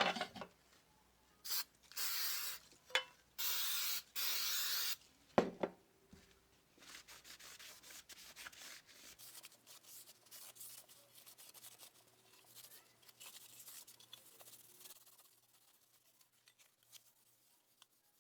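Restoration work on a small metal tool box: a few short bursts of steady hiss in the first five seconds, then quieter rubbing or sanding strokes that fade out near the end.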